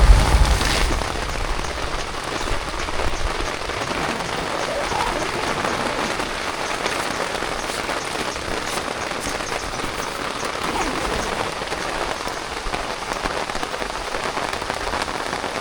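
Steady heavy rain falling on the camp's awning, an even dense hiss of drops, with a brief low rumble in the first second.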